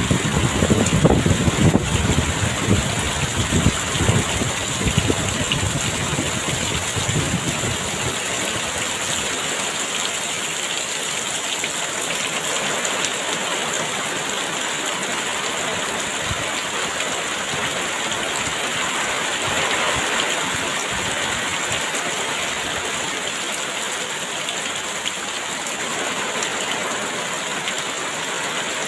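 Heavy rain pouring steadily. Gusty wind rumbles under it for the first several seconds and dies down about eight seconds in.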